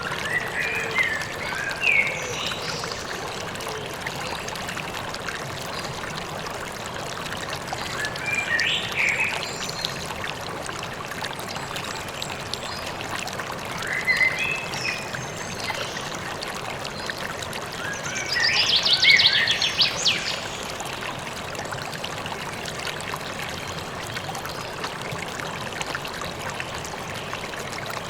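A river running steadily, with a songbird singing short chirping phrases every five or six seconds; the loudest phrase, a little past the middle, ends in a fast trill.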